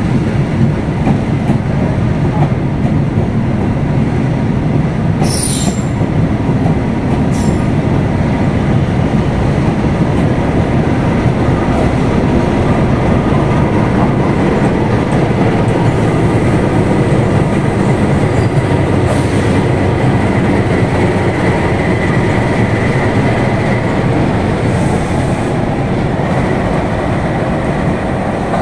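Passenger train hauled by a CC203 (GE U20C) diesel-electric locomotive rolling past on the rails with a steady rumble. Several brief high wheel squeals cut through, the clearest about five seconds in.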